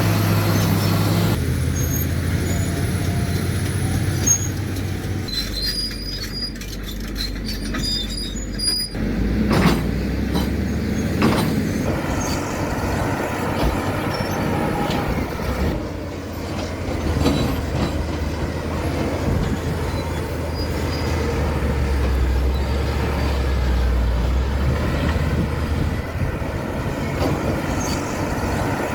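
Caterpillar D7 crawler bulldozer working: its diesel engine runs under changing load with the pitch shifting several times, over clanks from the tracks and short high metallic squeaks about five to nine seconds in.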